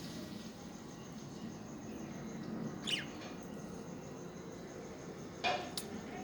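Budgerigars calling sparsely over a steady low background hum. There is one quick chirp sweeping downward about three seconds in, and a louder short harsh call near the end.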